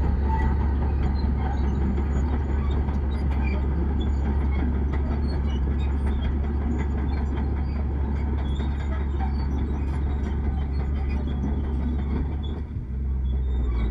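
Bulldozer's diesel engine running steadily with a deep rumble, dropping briefly near the end before it picks up again.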